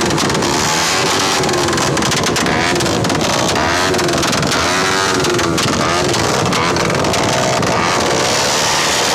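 Loud vehicle engines revving, their pitch rising and falling over and over, with scattered sharp pops.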